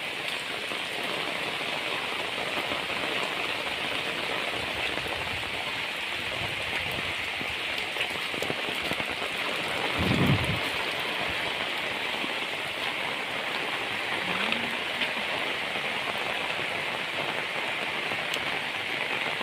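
Heavy rain falling steadily, a dense even hiss, with a brief low thump about ten seconds in.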